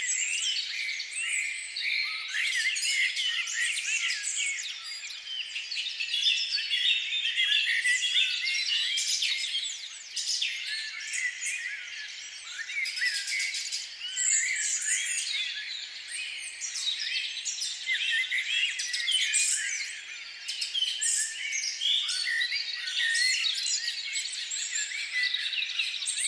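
A dense chorus of many small birds chirping and calling at once, with short, quick overlapping notes that go on without a break. It dips slightly a few times.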